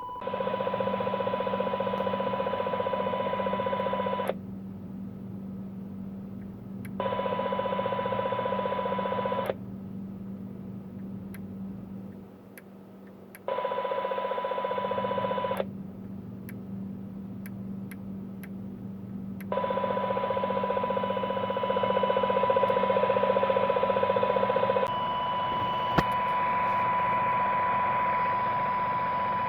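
A CB radio's speaker sounding out radio-frequency interference: a harsh buzzing noise with a steady tone in it, cutting in and out every few seconds. The uploader matches it to the oscillating interference put out by LED plant grow lights.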